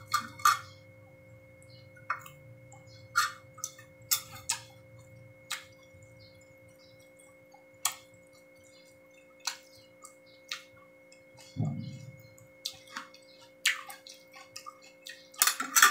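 Close-up eating sounds: irregular wet mouth clicks and chewing of pork barbecue, with occasional fork clinks on a plate, over a faint steady electrical tone.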